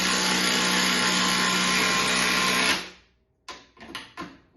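Milwaukee M12 FUEL cordless drill running at a steady speed in reverse, backing a fastener out, then stopping about three seconds in. A few short bursts of the trigger follow.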